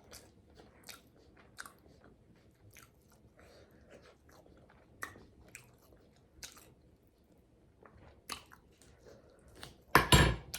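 Close-miked chewing and lip-smacking on salmon and asparagus, with scattered short wet mouth clicks. There is a brief, much louder noise near the end.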